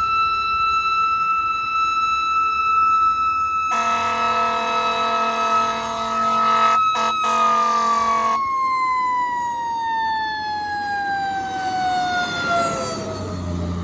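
Fire engine siren holding a steady high pitch, then falling slowly for the last six seconds or so. About four seconds in, the truck's air horn blasts for roughly four and a half seconds over the siren.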